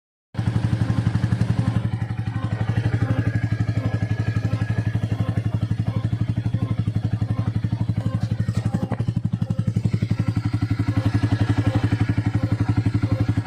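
Bajaj Dominar 400 single-cylinder motorcycle engine idling steadily, its firing a fast, even pulse.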